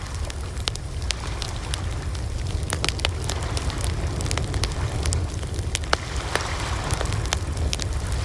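Bonfire crackling: frequent irregular sharp pops and snaps of burning wood over a steady low rumble of the flames.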